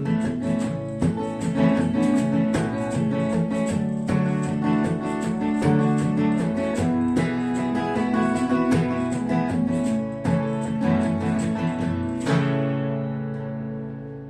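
Acoustic guitar strumming the closing bars of a country-folk song, with no singing. It ends on a final strummed chord about 12 seconds in that rings out and fades.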